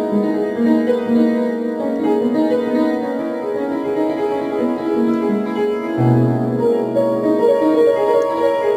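Piano music: a melody of held notes over chords, with a low bass note coming in about six seconds in.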